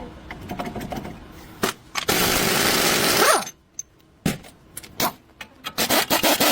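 A power tool run in one burst of just over a second, about two seconds in, its whine sliding down in pitch as it winds down, among scattered clicks and knocks of tools being handled.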